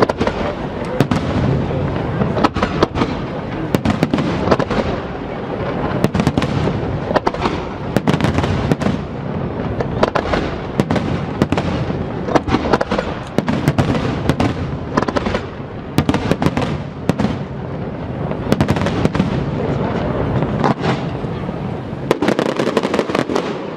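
Fireworks display: a dense, continuous barrage of bangs and crackles from aerial shells, with many sharp reports, several a second, over a steady rumble.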